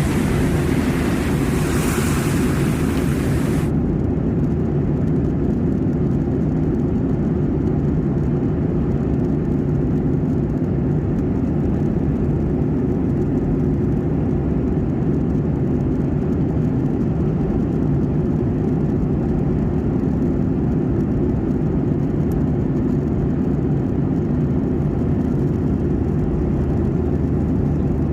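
Steady airliner cabin noise in flight: the constant low rumble of the engines and rushing air. A higher hiss on top cuts off suddenly about four seconds in, leaving only the low rumble.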